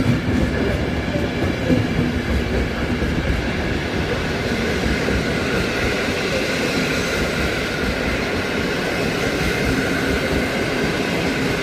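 Passenger train hauled by a Siemens Vectron electric locomotive rolling along the platform: a steady rumble of wheels and running gear with a faint steady whine.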